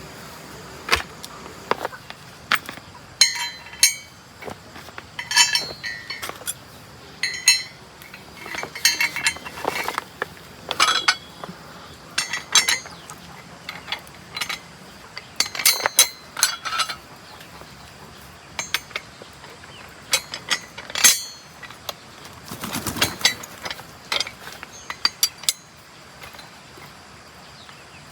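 Metal tools and parts clinking and tapping against each other at an irregular pace while a walking tractor is worked on, with a sharp, ringing clink every second or so.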